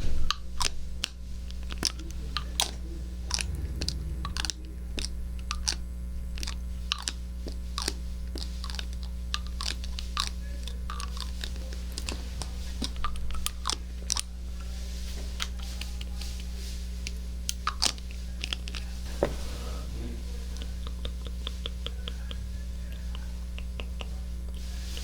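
Close-up ASMR trigger sounds on a binaural microphone: quick, irregular clicking and crackling that thins out to scattered faint clicks in the last few seconds, over a steady low hum.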